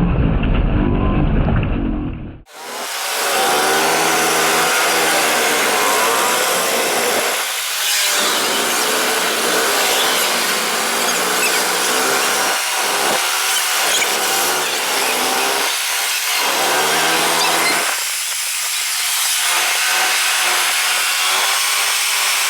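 Motocross bike engines revving, their pitch climbing and falling again and again as the bikes accelerate and back off. A low rumble comes first and cuts off suddenly about two seconds in.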